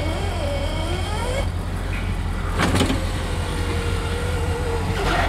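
Power window motors of a 1971 Cadillac Eldorado convertible whining as the windows go up, with a thunk as a window seats about two and a half seconds in. A second window motor then runs until another thunk near the end, over the steady idle of the car's 500-cubic-inch V8.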